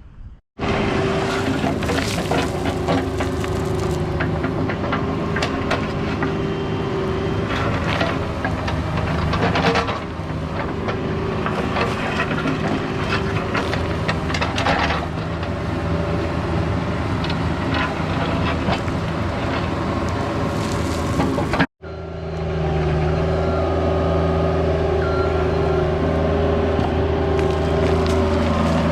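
Mini excavator's diesel engine running under work, with frequent metal clanks and knocks over it. After a sudden cut about three-quarters of the way through, the engine runs on steadily with fewer knocks.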